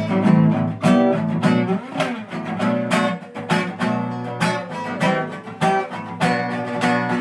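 Acoustic guitar strumming chords in a steady rhythm, about two strums a second, as the introduction to a song.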